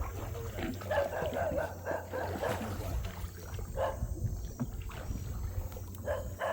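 Small boat's motor running with a steady low hum, with a few brief, indistinct voice-like sounds over it.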